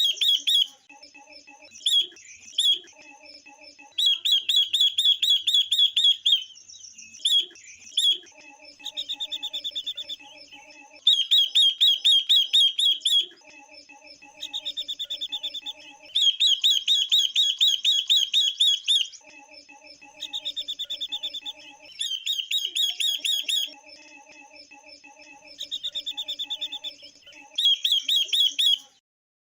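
Female silver-eared mesia and female red-billed leiothrix calling: repeated fast, high chattering trills of one to two seconds each, alternating with a lower buzzing chatter. These are female calls of the kind used to stimulate males to sing.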